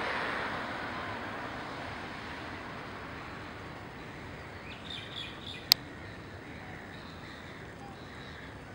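Short high bird chirps in a quick cluster about five seconds in, with fainter calls later. A broad rumble, likely a passing aircraft, fades away over the first few seconds. A single sharp click, the loudest sound, comes just after the chirps.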